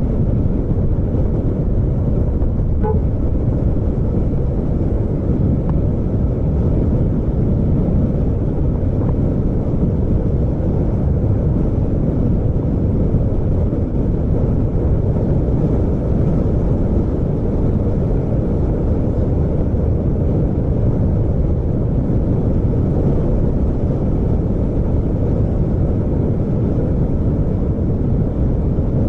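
Steady low rumble of a vehicle on the move: engine, road and wind noise at an even level, with no changes in pace.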